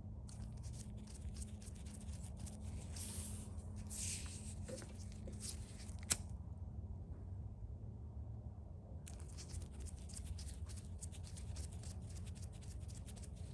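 Faint rustling and crackling clicks of hands working the new nylon starter rope, with one sharp click about six seconds in, over a steady low hum.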